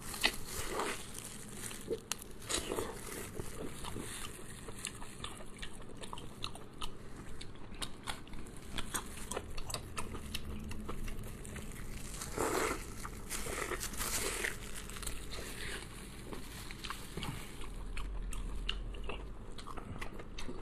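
Close-miked mukbang eating: crunchy bites and chewing with many small wet clicks and a few louder crunches partway through.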